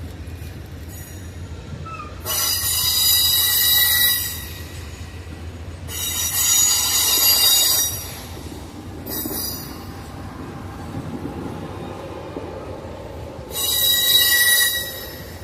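Train wheels squealing against the rails, in three high-pitched bursts of about two seconds each over a steady low rumble of the moving train.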